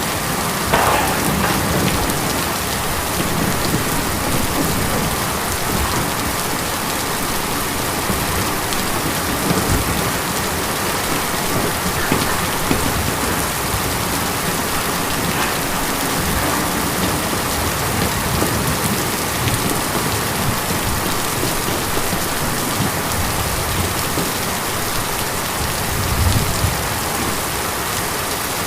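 Steady rain drumming on a tin roof, a dense even patter, with a brief deeper swell about a second in and another near the end.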